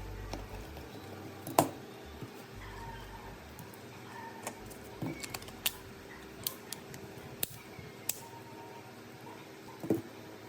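Small tools and phone parts being handled on a workbench: scattered light clicks and taps, with a sharper click about a second and a half in and another near the end.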